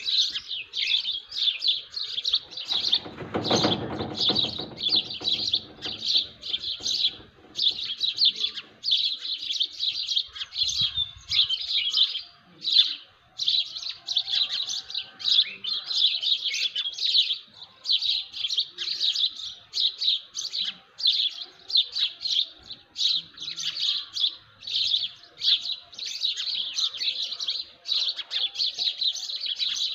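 Many small birds chirping at once in a dense morning chorus, quick high notes several a second with hardly a break. A low rumble rises underneath about three seconds in and fades away a few seconds later.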